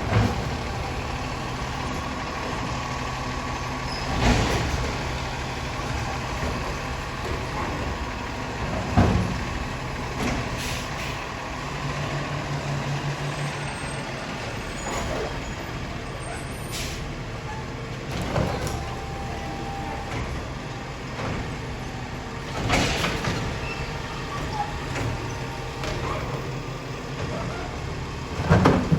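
Garbage truck's engine running steadily, broken by five loud sudden noises spaced a few seconds apart as the truck works.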